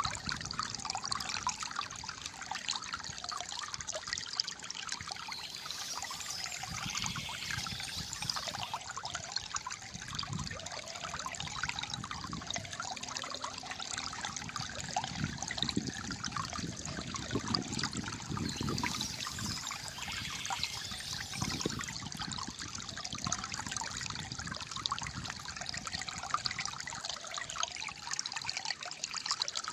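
Calm flowing water trickling and gurgling steadily.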